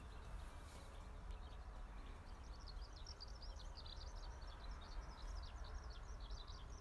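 A bird chirping rapidly in short high notes, starting about two seconds in and going on, over a steady low rumble.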